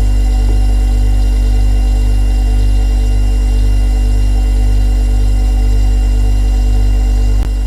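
Refrigerator compressor running with a deep, steady hum and faint higher tones above it. A single click comes near the end, and the hum drops slightly in level after it.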